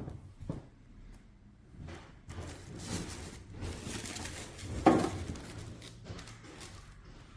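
Handling noise as the coffee maker and its parts are lifted and moved: soft rustling and light knocks, with one louder knock about five seconds in.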